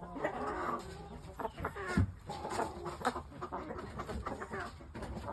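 Chickens clucking in short, scattered calls, with a sharp knock about two seconds in.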